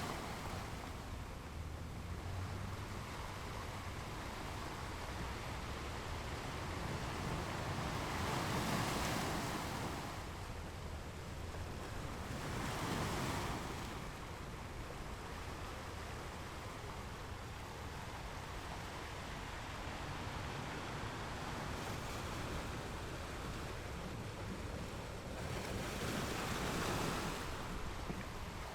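Ocean waves breaking on rocks, a steady wash of surf with three bigger waves surging up, about nine, thirteen and twenty-seven seconds in.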